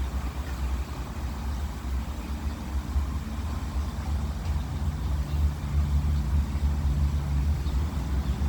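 Strong gusty wind buffeting the microphone, a low, fluttering rumble. A faint steady hum joins about four seconds in and stops a few seconds later.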